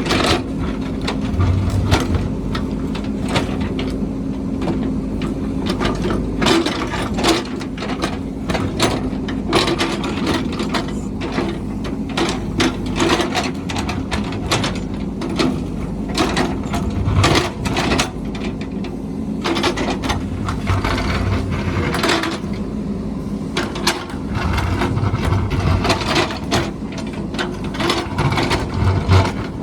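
A heavy construction machine's engine running steadily, with frequent irregular clanks and knocks throughout.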